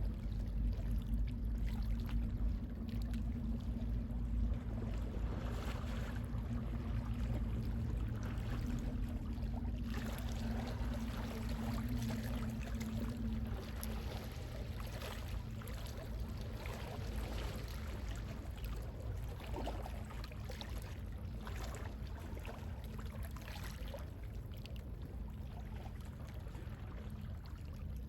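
Gentle sea waves lapping and washing, with a low rumble of wind on the microphone. A steady low hum runs under it and fades out about halfway through.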